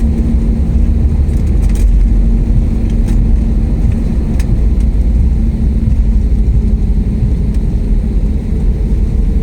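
Airliner landing: a loud, steady low rumble of the aircraft, with a low hum that fades in the first second and a few faint clicks.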